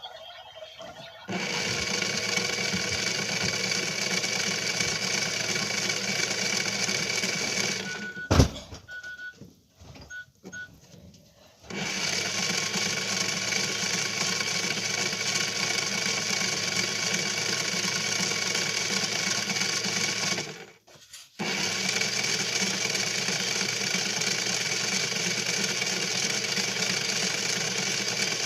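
Washing machine running with a steady motor whine and hum. It cuts off with a sharp click, a few short electronic beeps sound, and then it starts running again. It stops once more for about a second before resuming.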